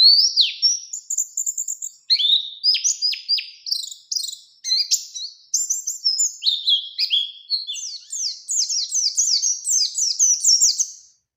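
Pleci (white-eye) singing a long, fast run of high chirps and falling notes, kept up almost without a break and stopping near the end. This is the continuous rolling 'ngerol' song that keepers play as a lure recording to set other pleci singing.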